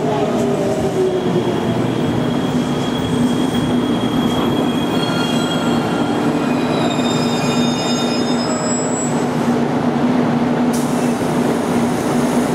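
A JR Kyushu 813 series electric multiple unit braking to a stop at a platform: rolling rumble, a motor whine falling in pitch as it slows, and squealing from the wheels and brakes in several thin high tones. Near the end a sudden hiss sets in as the train comes to rest and the doors open.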